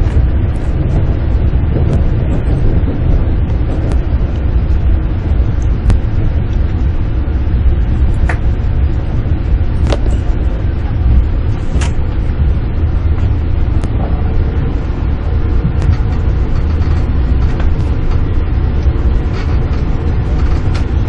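Running noise heard from inside the cabin of a Jōetsu Shinkansen Max double-decker train: a steady low rumble with a few sharp clicks here and there.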